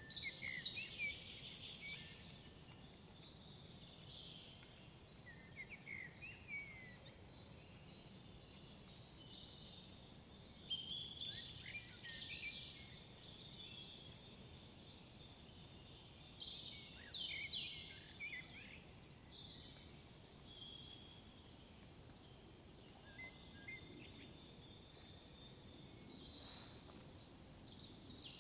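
Songbirds singing in a forest, a short phrase every four or five seconds, several of them ending in a fast high trill, over a faint steady low rumble of outdoor ambience.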